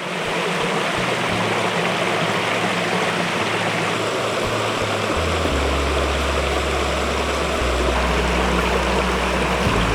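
A small waterfall rushing steadily, a dense even splashing of falling water. Low held music notes come in about halfway.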